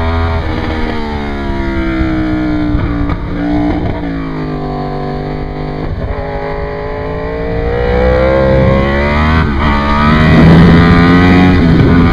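Sportbike engine heard onboard, its pitch falling and rising with the revs. There are breaks in pitch, as at gear changes, about four and nine and a half seconds in, and it is loudest on the hard pull near the end.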